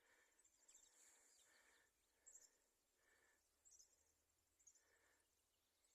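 Near silence: faint outdoor background with three or four brief, faint high chirps, a couple of seconds in and again near the end.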